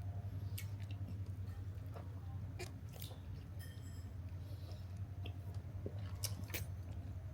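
A person chewing and eating close by, with scattered small wet clicks and smacks. Under it runs a steady low hum.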